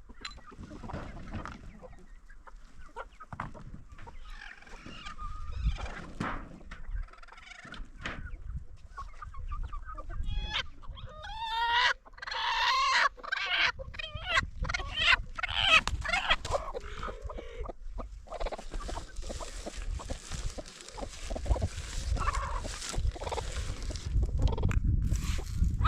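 Chickens clucking and calling, with a run of louder, higher squawking calls about halfway through.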